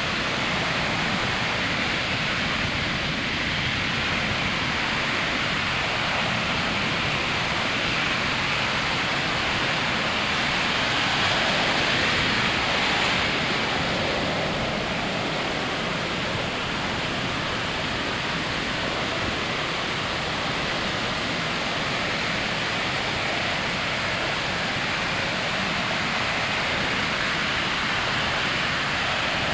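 Ocean surf washing onto a sandy beach: a steady, continuous rush of breaking waves that swells slightly about halfway through.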